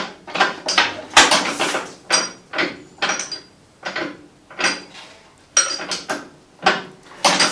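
Repeated metallic clanks with a short ring, roughly two a second and unevenly spaced, from the starting handle of a 1940 Fordson N tractor being swung by hand. The engine is turning over on compression without firing.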